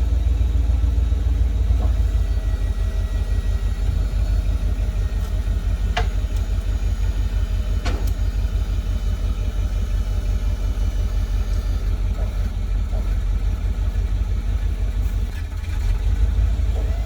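Small tow truck's engine idling with a steady low rumble, with two sharp clicks about six and eight seconds in.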